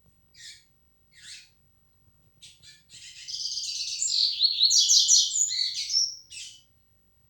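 Coleiro baiano (double-collared seedeater) singing: two short high notes, then a fast, warbling song phrase lasting about three seconds, loudest in the middle, ending on one short note.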